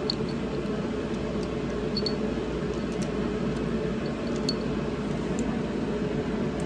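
Steady whirring hum of a fan in a small room, with a few light, separate clicks and clinks of metal parts being handled.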